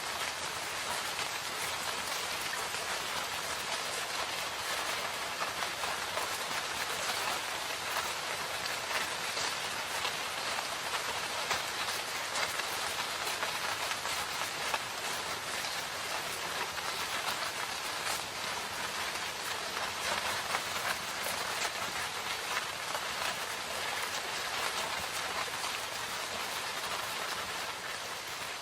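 Steady rain falling in a forest: an even hiss with many small drop ticks.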